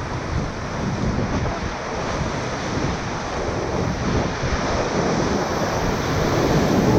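Whitewater rapids of the Ocoee River rushing around a raft, with wind buffeting the microphone; the rush grows a little louder toward the end.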